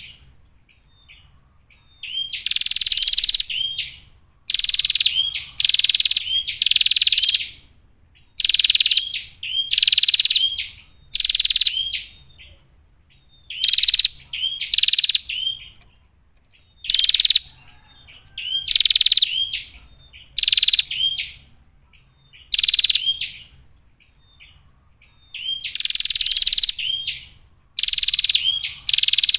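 A female prenjak (prinia) calls, giving short, rapid, buzzy rattling bursts again and again, each half a second to two seconds long, with brief pauses between them.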